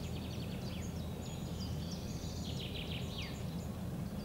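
Several small birds singing, quick chirps and trills overlapping, over a steady low background rumble.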